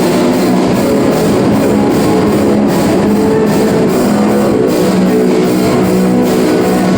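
Rock band playing live: guitar chords held over a steady drum-kit beat.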